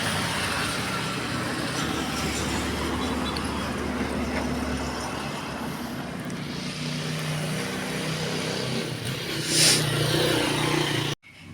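Road traffic: motor vehicles running past, with one passing close and loudest about nine and a half seconds in.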